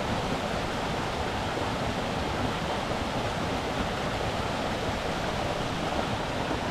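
Bear Creek's water rushing over rocks in a steady, even rush.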